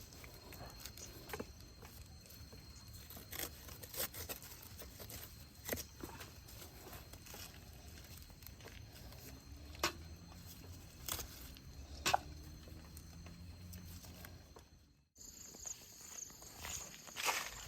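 Outdoor ambience with irregular sharp snaps, crunches and rustles, like footsteps and plants being handled. About 15 s in the sound cuts out briefly, then gives way to a steady high hiss with more crunching steps.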